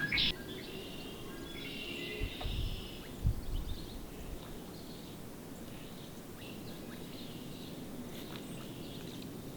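Outdoor ambience with scattered small-bird chirps and twitters. Two brief low thumps come a couple of seconds in.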